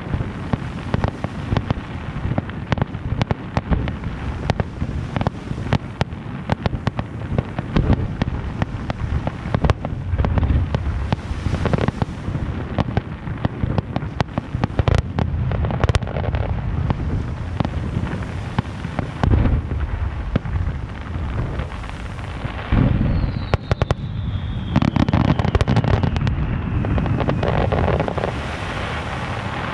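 Aerial fireworks display: a dense run of shell bursts and crackling, with deeper booms now and then. Near the end comes a whistle that falls in pitch over a few seconds.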